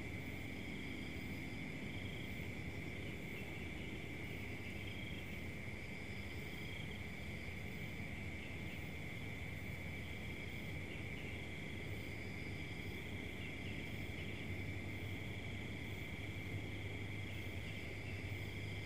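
Crickets chirring as a steady, unbroken high trill throughout, with a faint low hum beneath.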